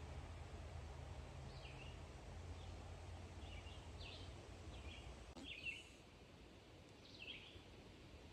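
Faint songbird song: short phrases repeated about once a second. A low rumble runs through the first half, and a single click comes a little past halfway.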